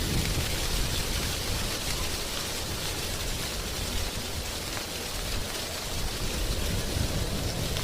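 Wind blowing through drying tree leaves: a steady, dense rustle, with a low rumble that swells and eases.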